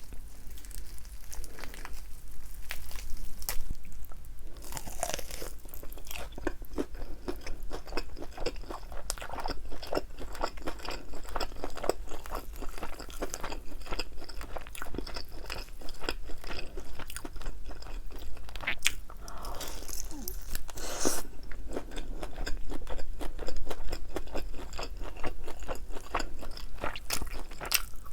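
Crispy fried chicken wings with a thin batter coating being bitten and chewed close to the microphone. The wings make dense, continuous crunching crackles.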